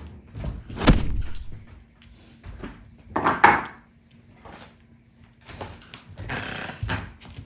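Household knocks and clatter from things being handled: a sharp knock about a second in, a longer rattling clatter around the middle, and a few lighter knocks near the end.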